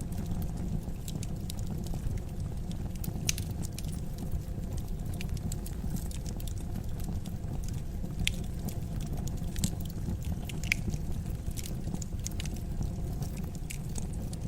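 Wood fire burning: a steady low rumble of flames with irregular crackles and sharp pops from the burning logs.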